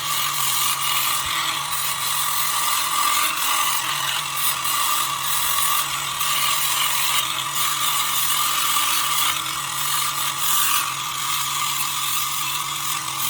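A power tool running steadily at constant speed with a dense rattling, grinding texture, switched on abruptly just before and kept running without a break.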